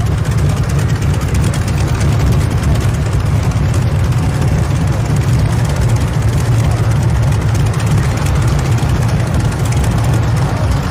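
Loud, steady engine noise from a modified pulling tractor running hard, a heavy low rumble with no pauses or changes in pitch.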